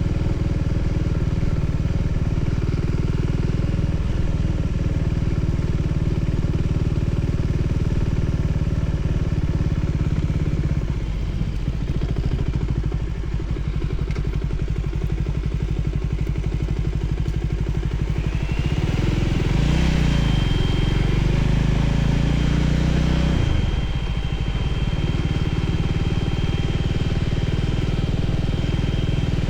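Voge 300ACX motorcycle engine running steadily under way, revving up for a few seconds about two-thirds of the way through before settling back.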